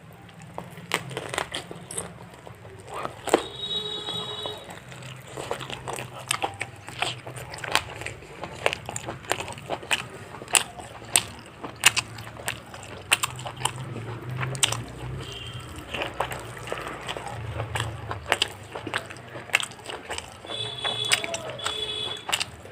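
A person eating fried chicken close to the microphone: irregular bites, crunches and wet chewing clicks.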